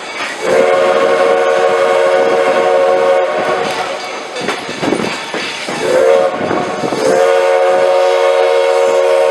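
Steam whistle of Black Hills Central steam locomotive #110 blowing, several notes sounding together: a long blast, a short one about six seconds in, then another long blast. The long-long-short-long pattern is the signal for a road crossing. Wind buffets the microphone between the blasts.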